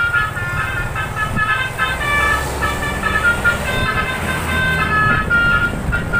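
Musical multi-tone bus horn (telolet-style klakson) playing a tune of quick stepped notes, over the low rumble of bus engines.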